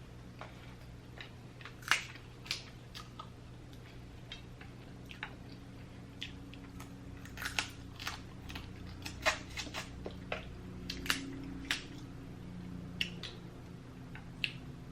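Close-up eating sounds from a seafood boil: chewing with sharp wet mouth clicks and smacks, scattered irregularly at one to two a second.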